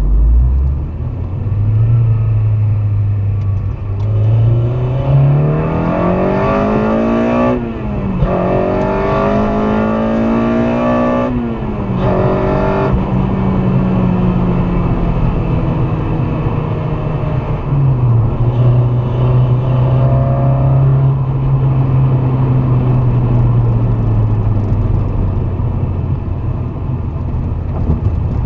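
Honda Civic Si's swapped-in K24A2 2.4-litre four-cylinder accelerating hard, its pitch climbing to high revs. There are two quick upshifts, each a sudden drop in pitch before it climbs again. Then it eases off and runs at part throttle, with one sudden change in pitch later on, as road and wind noise carry on underneath.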